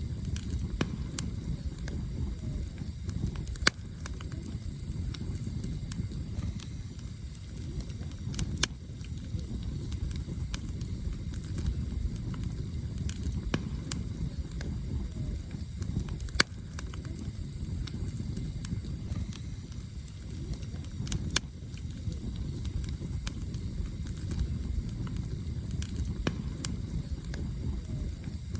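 Campfire of burning firewood crackling, with irregular sharp pops of the wood over a steady low rumble. The loudest pops stand out a few times.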